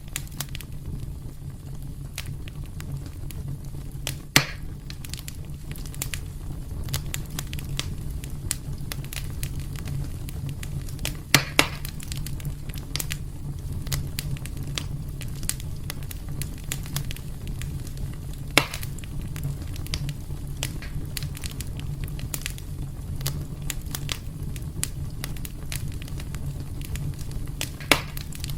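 Wood fire burning in a fireplace: a steady low rumble of flames under constant small crackles, with a handful of louder pops.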